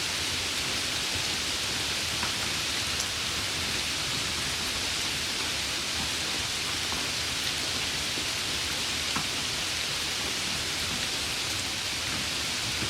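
Steady rain: an even, unbroken hiss with a few faint, scattered drop ticks.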